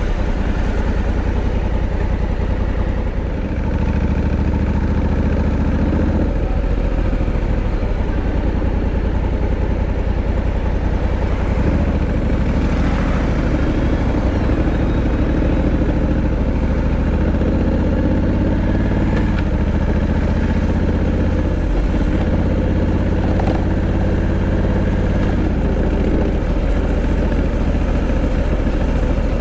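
Honda Africa Twin 1100's parallel-twin engine running, its pitch rising and falling several times with the throttle.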